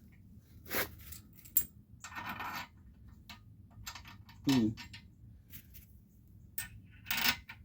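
Small metal hardware and hand tools clinking and tapping a few times, with a short metallic rattle about two seconds in and another near the end: axle bolt, spacers and wrench being handled while the rear wheel is fitted to a minibike frame.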